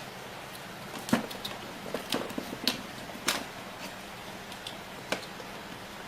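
Handling noise from assembling an electrical switch plate: about half a dozen separate sharp clicks and knocks of plastic parts and tools, over a faint steady hum.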